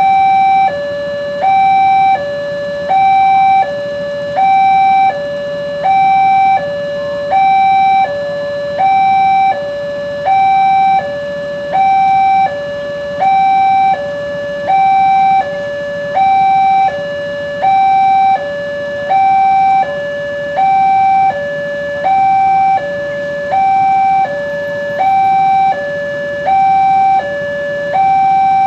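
Indonesian railway level-crossing warning alarm sounding: an electronic two-tone signal alternating steadily between a higher and a lower note, about one high-low cycle a second, warning that a train is approaching and the barrier is closed.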